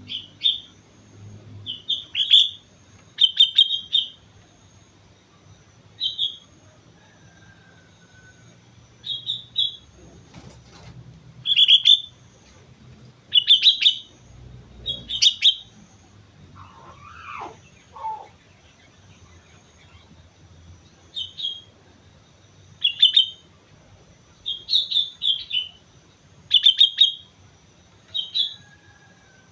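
Sooty-headed bulbul (kutilang) singing: short, bright chirping phrases repeated every second or two, with a lull of several seconds midway.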